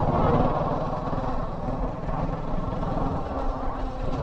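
Kawasaki Versys 650's parallel-twin engine running steadily as the motorcycle is ridden, its fast firing pulses under a haze of road and wind noise.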